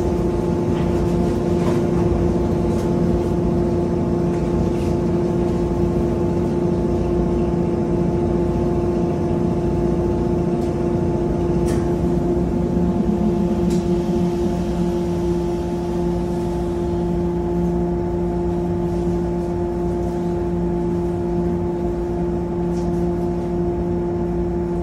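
A JR 103 series electric train standing at a station, its onboard auxiliary equipment giving a steady hum of several held tones, with a few faint clicks.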